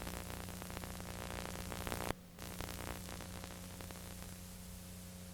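Steady hiss and electrical hum from the recording itself, with a sharp click about two seconds in and a brief dropout right after it.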